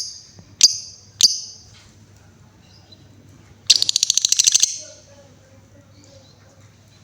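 Female lovebird calling: three sharp, high calls about half a second apart, then around the middle a fast ticking run of clicks lasting about a second, the 'ngetik' song.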